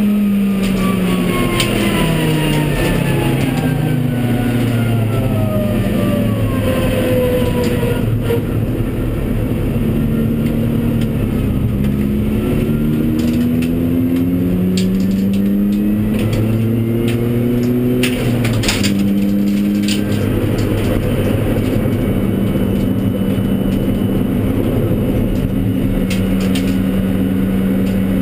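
Honda Civic Type R EP3's 2.0-litre four-cylinder engine racing hard, heard from inside the cabin. The engine note falls for the first eight seconds or so, then climbs in a run of short rising pulls broken by gear changes, and holds steady from about twenty seconds in.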